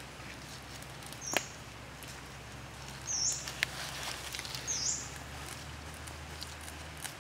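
A bird gives three short, high chirps about a second and a half apart, over a faint crackle and sizzle from skewered octopus grilling on charcoal as sauce is brushed on, with a few sharp clicks.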